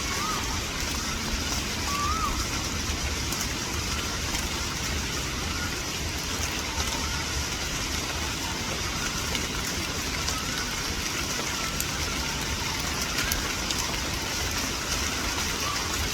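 Steady rain falling, an even hiss with a low rumble underneath. Faint short chirps come through a few times, about 2 s in and again later.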